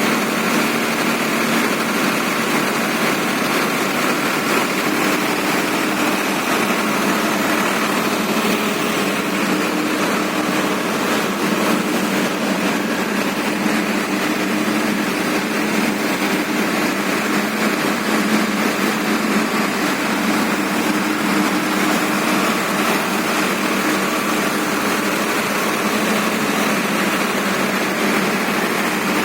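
Farmtrac tractor's diesel engine running steadily at a constant speed.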